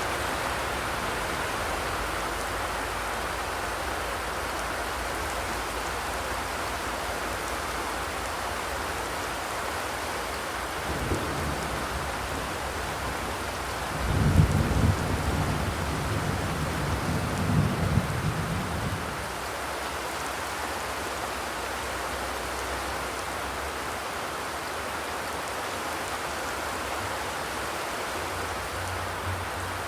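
Steady rain drumming on a zinc roof, an even patter. About halfway through, a low rumble swells for several seconds and fades away, with a brief weaker one shortly before it.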